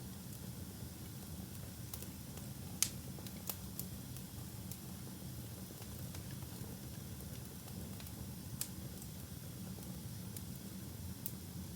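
Wood fire burning in a fireplace: a steady low rumble of flames with sparse sharp crackles and pops, the loudest pop about three seconds in.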